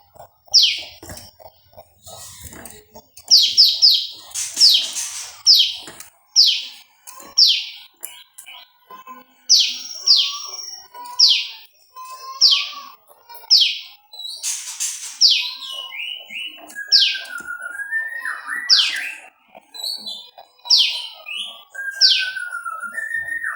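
Prenjak lumut calling: a series of loud, sharp notes, each falling steeply in pitch, about one a second, some in quick pairs or triples. Softer, lower, wavering whistles run alongside in the second half.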